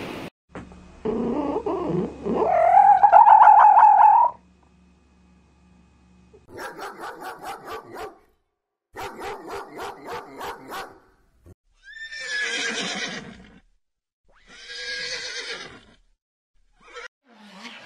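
A string of animal calls. First a loud, long wavering call rises in pitch, then come two quick runs of short rapid calls, and near the end a horse whinnies twice.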